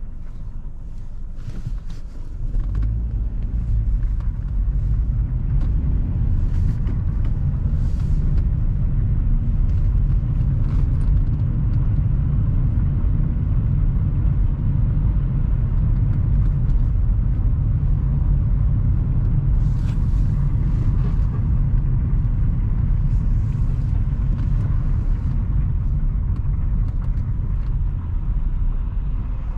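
Car on the move: a steady low rumble of engine and road noise that swells about two seconds in and then holds, with scattered faint ticks over it.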